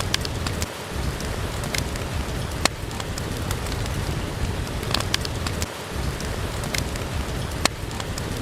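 Steady rain falling, with a log fire crackling: scattered sharp pops a second or more apart over the even hiss of the rain.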